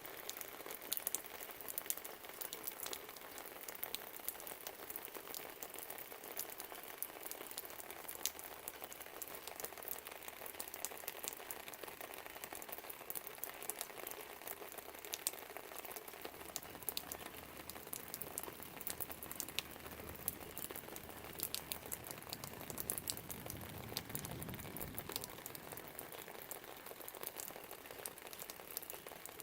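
Steady rain pattering and dripping, full of fine drop ticks. A faint low rumble runs under it from about eight seconds in, swells a little near the end and then fades.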